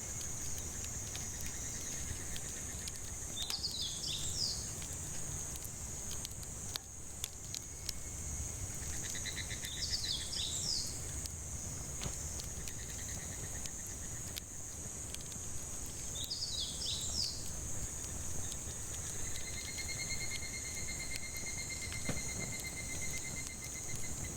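Forest ambience: cicadas keep up a steady high drone while a bird repeats a short song of quick falling notes about every six to seven seconds, with longer trills in between. Under it, a wood campfire crackles with scattered small pops.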